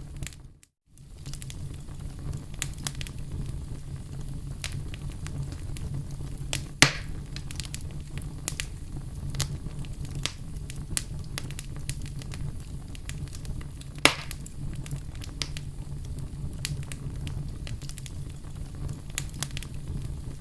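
Wood fire burning in a fireplace: a steady low rumble of flame with frequent small crackles, and two louder pops about 7 and 14 seconds in. The sound cuts out for a moment just after the start.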